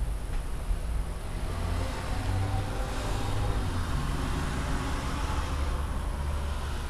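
Rain falling in a thunderstorm, an even hiss that swells a little about three seconds in, over a continuous low rumble.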